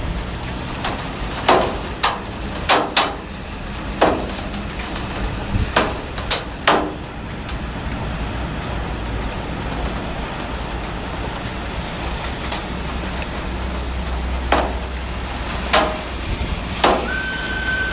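Heavy rain falling steadily, with about a dozen sharp, irregular knocks, most of them in the first seven seconds and again a few seconds before the end. A brief high tone sounds right at the end.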